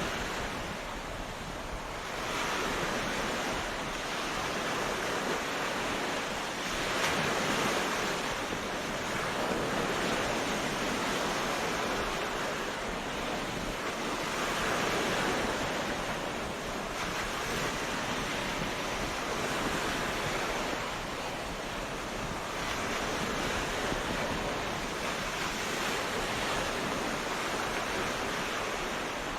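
Ocean waves breaking on a beach, a continuous surf wash that swells and eases every few seconds.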